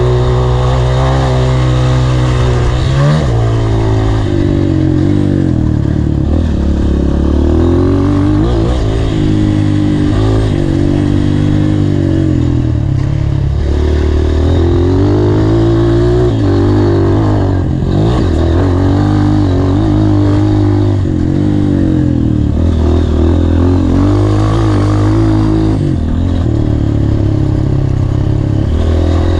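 Honda CRF230's single-cylinder four-stroke engine being ridden hard, revving up and backing off over and over, its pitch climbing and dropping with the throttle and gear changes.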